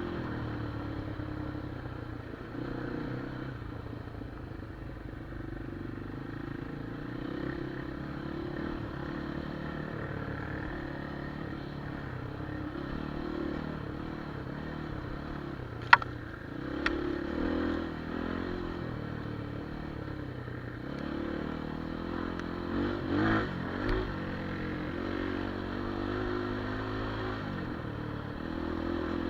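Enduro motorcycle engine running at low revs, with small rises and falls in speed. Two sharp knocks come about sixteen and seventeen seconds in, and a few louder bumps near twenty-four seconds.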